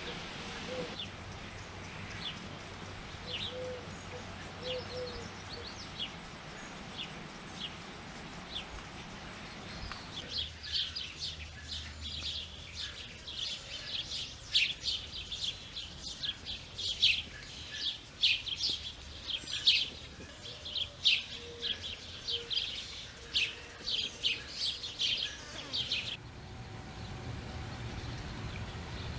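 Small birds chirping. Sparse, faint high chirps for the first ten seconds, then a dense run of loud, quick chirps for about sixteen seconds that stops abruptly.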